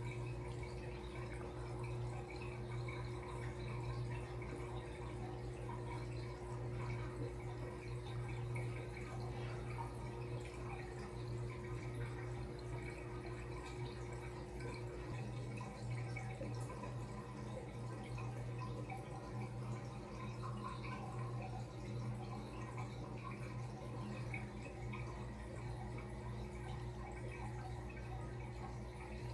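Aquarium water running: steady trickling and dripping of filter or pump return water into the tank over a constant low hum. A faint higher tone stops about halfway through.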